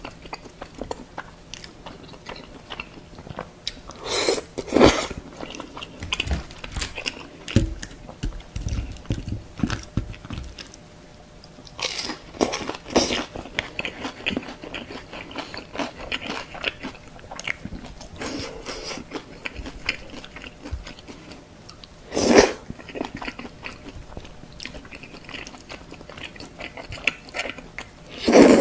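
A person eating close to the microphone: wet chewing and mouth sounds of tteokbokki, chewy rice cakes and noodles in a thick sauce, with many small clicks. There are a few louder bursts, spread out, about four in all.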